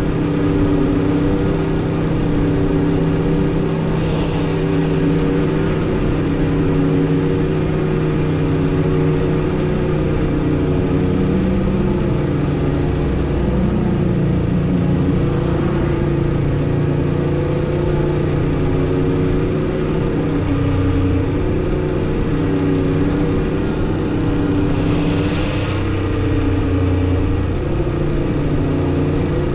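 2016 Aprilia RSV4 RR's V4 engine through its stock exhaust, running at fairly steady revs while riding, its pitch wavering only slightly. A few brief rushing swells come over it, about four seconds in, mid-way and near the end.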